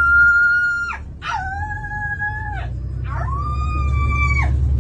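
A woman imitating a dog's howl: three long, high, steady howls, each ending in a downward slide in pitch, over a steady low hum.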